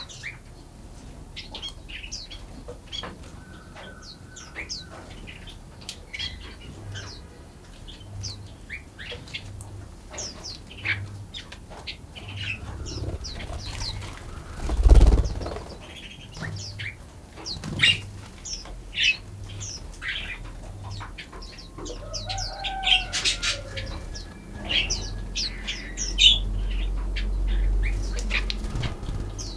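Forest songbirds chirping, many short quick high calls overlapping throughout, with a loud low thump about halfway through and a low rumble near the end.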